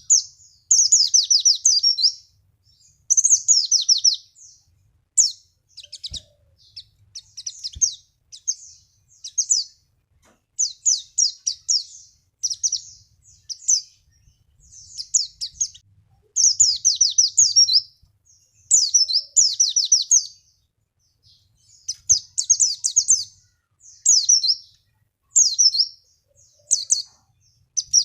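White-eye (pleci) song used as a lure recording: rapid high chirping trills in phrases of one to two seconds, broken by short pauses.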